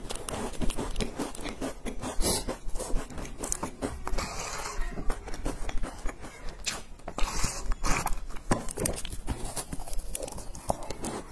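Crunching and chewing of crumbly sesame-topped shortbread cookies, a dense run of small crackles and clicks from the mouth, with two longer hissy stretches in the middle.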